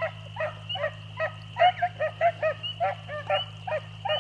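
A pack of beagles baying as they run a rabbit's trail. Short, overlapping yelps from several hounds come about four a second.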